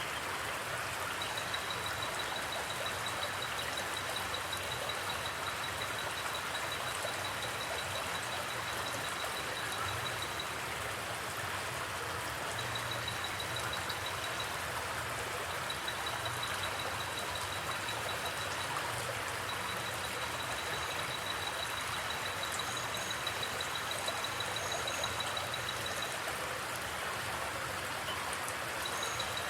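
Forest river or creek water flowing steadily. A high, rapidly pulsing trill comes and goes in stretches through it, with a few faint high chirps near the end.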